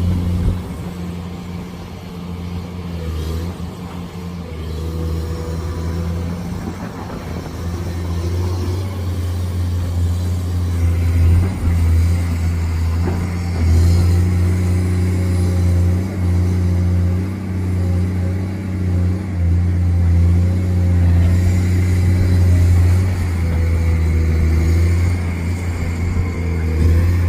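Excavator's diesel engine running under working load, its low steady drone swelling and dipping as the machine works. A higher steady whine joins about a third of the way in.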